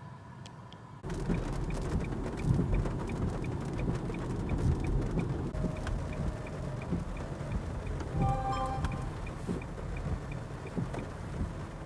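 Heavy water noise drumming on a car, starting suddenly about a second in. A faint regular ticking runs under it at about three a second, and a short electronic tone sounds about eight seconds in.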